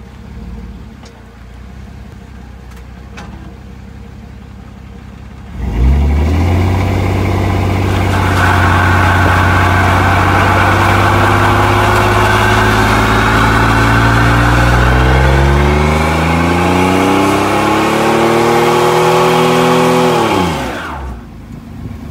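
V6 truck engine revved: from a low idle it jumps suddenly to a loud, steady high idle about six seconds in, climbs in pitch for several seconds, then drops quickly back to idle near the end.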